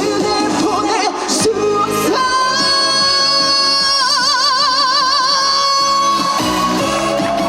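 A woman singing a trot song live over a backing track, with one long held note that breaks into a wide vibrato partway through.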